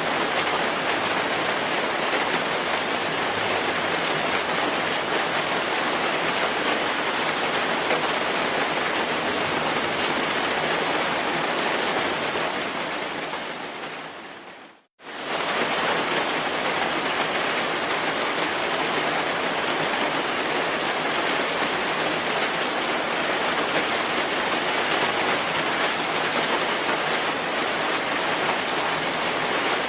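Steady rain, an even hiss of falling drops. About halfway through it fades away over two or three seconds to a moment of silence, then comes straight back at full level: a join in the looped recording.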